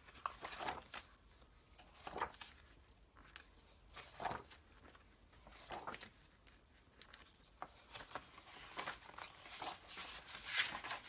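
Loose paper illustration prints being handled and turned over one by one, each turn a short papery swish or rustle, coming every second or two.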